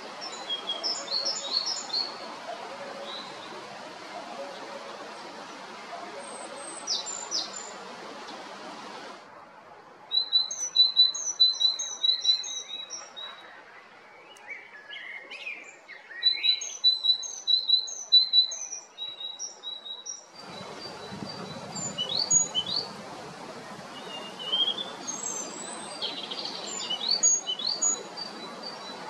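Male great tit singing, repeating short high two-note phrases in runs of several, with other shorter calls between runs. A steady background hiss drops out abruptly about nine seconds in and returns about twenty seconds in.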